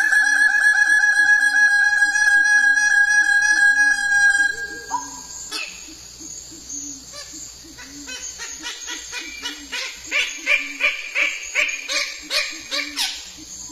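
A bird-of-paradise calling: a loud, long run of rapid rasping notes lasting about four and a half seconds, then, after a quieter stretch, a series of sharp repeated notes at about three a second near the end.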